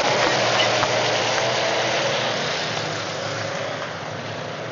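A field of race cars running hard together on the restart, a dense engine noise that slowly fades as the pack moves away.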